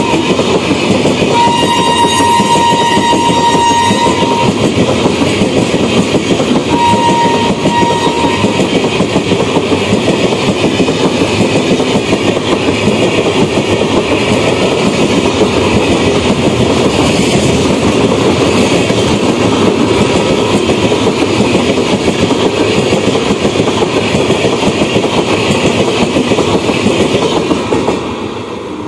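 Express train of LHB coaches running through the station at speed, a continuous loud rush and rattle of wheels and coaches. The electric locomotive's horn sounds twice, a long blast about a second in and a shorter one about seven seconds in. The noise drops away near the end as the last coach passes.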